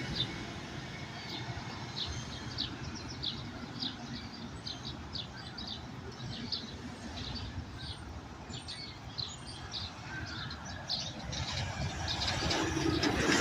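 Small birds chirping in short repeated notes over a steady hum of distant city traffic; near the end a passing vehicle grows louder.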